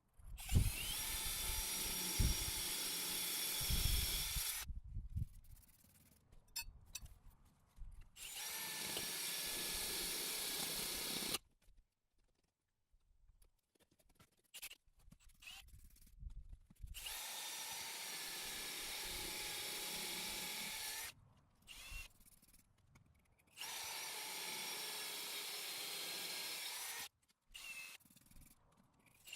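Power drill boring through a brick wall with a Milwaukee Diamond Plus bit. It runs steadily in four spells of three to four seconds each, stopping and restarting in between.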